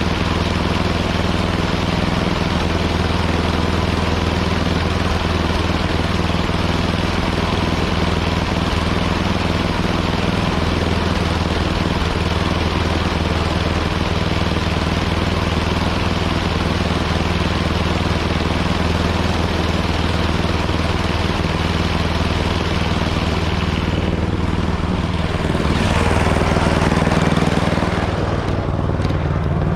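Gasoline snowblower engine running steadily, swelling a little near the end and then easing.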